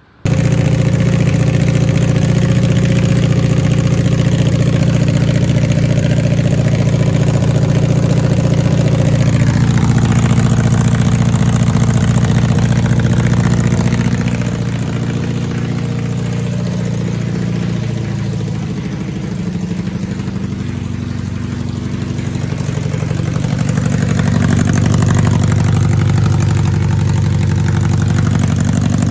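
1991 BMW K1's inline-four engine running through an aftermarket exhaust, mostly at a steady idle. The note shifts about a third of the way in, goes quieter through the middle, and comes back up again near the end.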